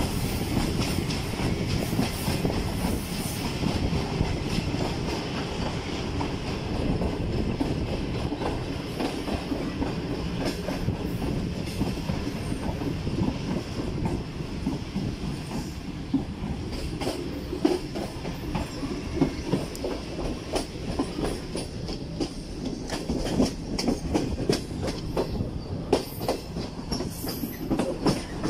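Passenger train running at speed, heard from outside the coach window: a steady rumble of wheels on the rails, with irregular clicks and clacks as the wheels cross rail joints, which come more often in the second half.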